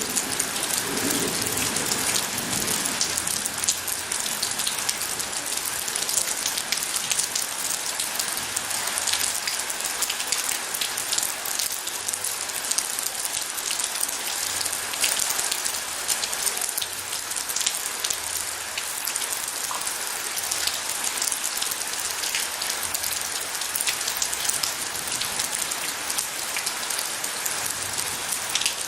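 Steady heavy rain falling on a surface, a dense patter of drops without a break. A low rumble dies away in the first few seconds.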